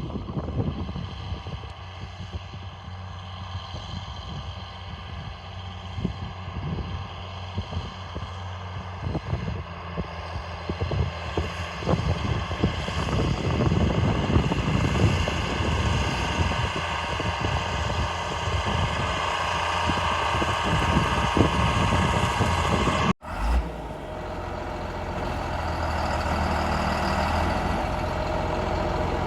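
John Deere 4955 tractor's diesel engine running steadily, with a rough, rattling low end that grows louder partway through. About 23 seconds in the sound cuts out abruptly and resumes as a smoother, steadier engine hum.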